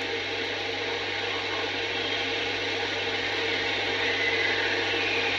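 Running stream: a steady rushing of water, from a vintage sound-effects recording of a tawny owl and other birds beside a stream, with a low mains hum beneath it.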